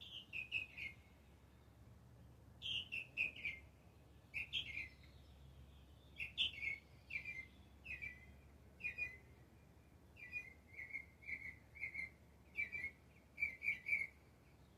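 A songbird singing, repeating short phrases of three or four quick descending chirps every second or two, with a few pauses between phrases.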